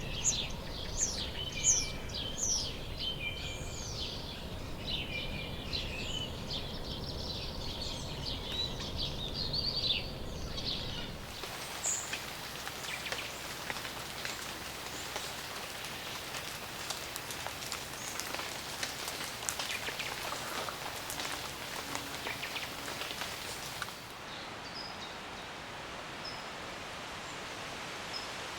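Many birds chirping and calling rapidly over a low rumble, then the sound cuts abruptly to a steady patter of rain and dripping with a few faint bird calls, growing quieter near the end.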